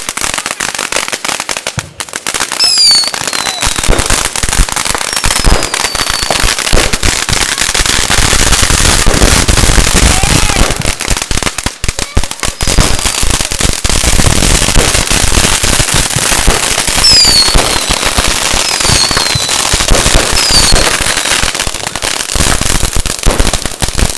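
Firecrackers and fireworks crackling loudly in a dense, continuous stream of pops, with several short falling whistles at about 3, 6, 17 and 20 seconds in.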